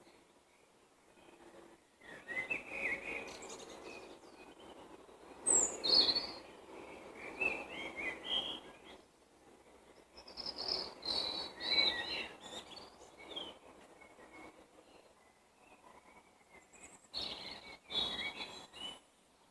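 Songbirds singing in spring, in several bouts of quick chirps and trills with short quiet pauses between them.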